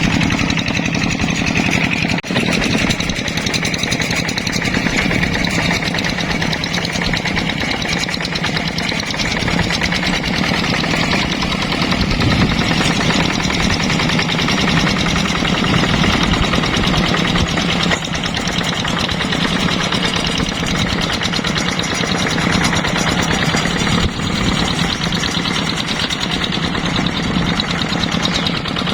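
Yanmar hand tractor's single-cylinder diesel engine running steadily with a fast, even chugging beat.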